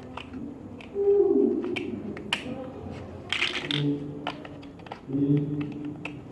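Hard plastic puzzle pieces clicking as they are handled and fitted together. About a second in there is a louder short vocal tone that slides down in pitch, and two more brief hummed tones follow later.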